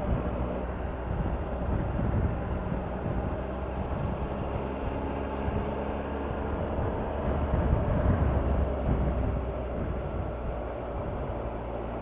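Triumph Tiger 1200's three-cylinder engine running while the motorcycle is ridden along a road, mixed with wind noise. It gets louder about eight seconds in.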